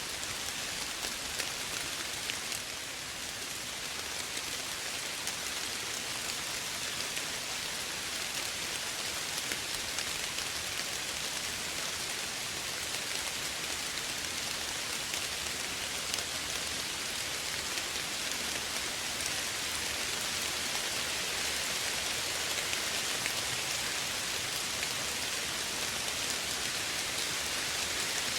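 Steady rain falling, an even hiss of many small drops ticking on a surface, with no thunder.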